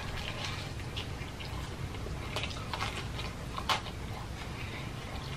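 Close-miked chewing of crispy fried chicken: soft crunches and wet mouth clicks, with a sharper crackle a little under four seconds in.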